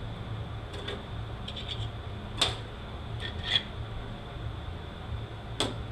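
A few light, sharp metal clicks and taps as transmission parts are handled during teardown, over a steady low shop hum.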